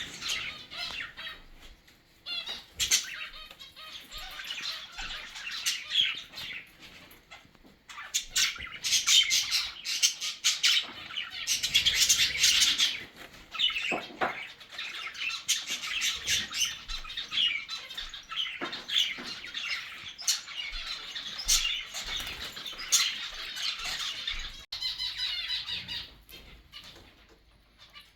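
Mixed flock of zebra finches, cockatiels and budgies chattering, chirping and squawking together, with short wing flutters. The calls crowd densely in the middle and thin out near the end.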